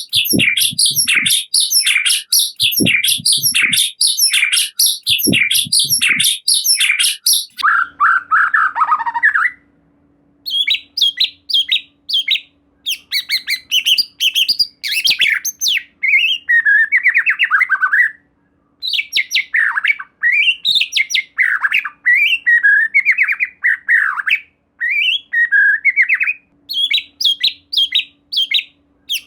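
White-rumped shama (murai batu) singing: for about the first seven seconds one short phrase is repeated about twice a second, then after a brief pause comes a varied run of whistled, warbling and chattering phrases broken by short silences. A faint steady hum runs under the later phrases.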